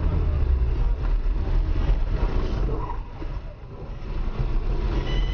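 Car driving on the road: a steady low rumble of engine and road noise that dips briefly about three and a half seconds in.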